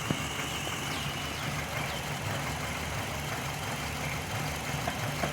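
Hyundai Matrix four-cylinder petrol engine idling steadily. Its running is unbalanced because injectors 1 and 3 deliver fuel unevenly, the cause of its cylinder misfire.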